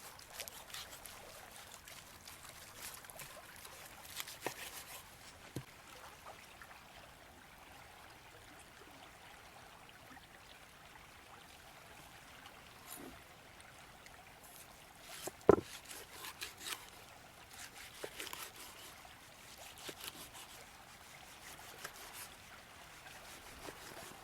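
A knife slicing a seared tomahawk steak, with scattered light cuts and taps and one sharp knock about fifteen seconds in. A river flows steadily underneath.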